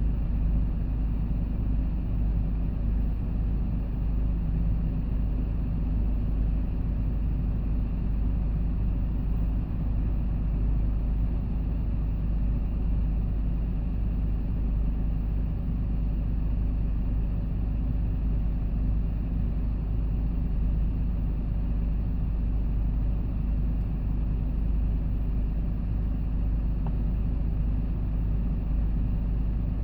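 Hyundai Porter II box truck on the move: a steady low rumble of engine and road noise.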